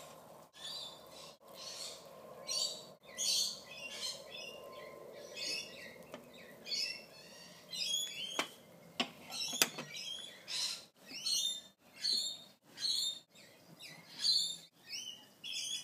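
A bird chirping over and over in short calls, about one to two a second, with a couple of sharp clicks in between.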